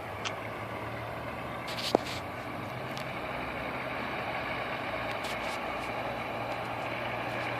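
Steady engine hum of a large truck running at the scene, with a few light clicks and one sharp tick about two seconds in.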